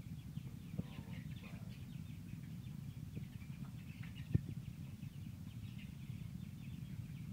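Chickens chirping and clucking in a long run of short high calls over a steady low rumble, with a sharp knock about four seconds in.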